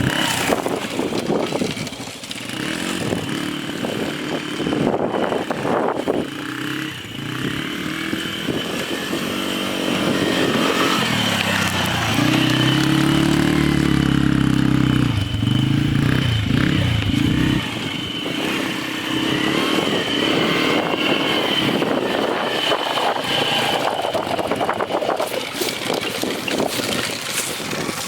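Quad (ATV) engine being ridden, its pitch rising and falling as the throttle opens and closes. It holds a high, loud rev for a few seconds around the middle, then drops back.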